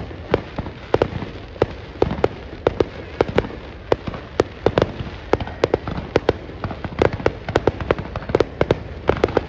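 Fireworks bursting: a dense, irregular string of sharp bangs, several a second, over a continuous low rumble.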